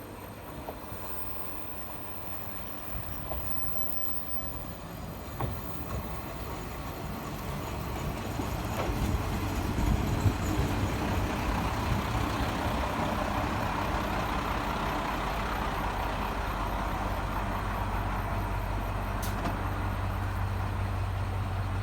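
JR Shikoku KiHa 54 diesel railcar coming in, growing louder over about ten seconds with a few sharp clicks, then standing with its diesel engine idling in a steady low hum.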